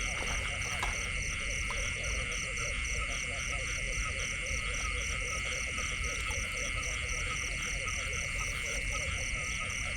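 A chorus of frogs calling over and over, with a steady high insect drone and a faster insect trill pulsing about three to four times a second above it.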